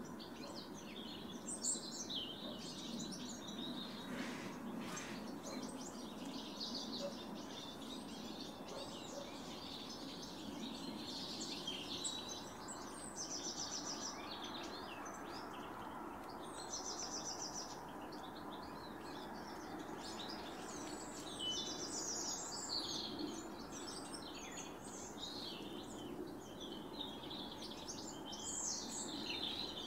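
Small wild birds chirping and calling, with three short rapid trills of evenly repeated notes a little before the middle and again just after it, over a steady low background hum.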